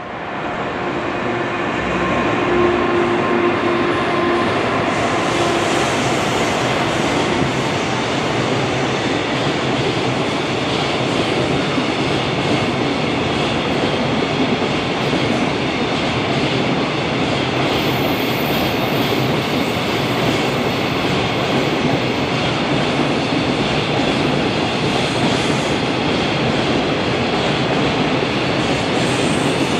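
A long freight container train passing at steady speed: the continuous rumble of wagons rolling on the rails, with wheels clattering over the track. It swells over the first couple of seconds, then stays loud and even.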